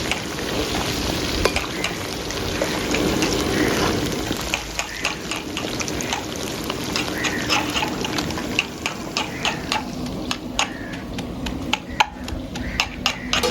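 Food sizzling in hot oil in a cooking pot while a metal spoon stirs it, scraping and clicking against the pot many times.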